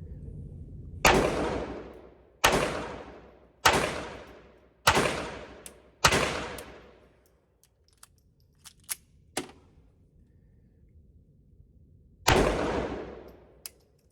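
Ruger LCP II .22 LR pistol firing: five shots about a second and a quarter apart, each with a long echoing decay, then a pause with a few light clicks and one more shot near the end.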